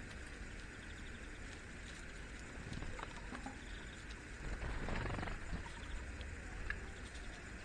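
Outdoor ambience: a steady faint hiss, a few light taps, and a short rapid rattle about five seconds in.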